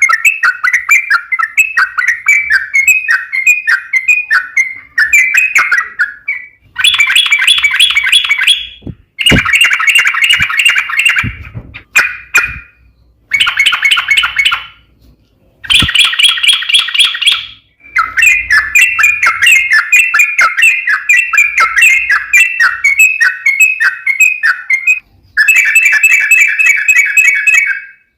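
Yellow-vented bulbul (trucukan) singing its long, rapid chattering song in repeated bursts of a few seconds each, separated by short pauses.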